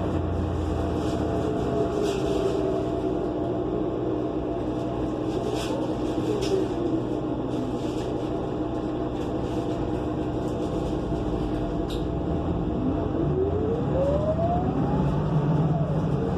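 An engine running steadily with a low hum; near the end a tone rises and then falls.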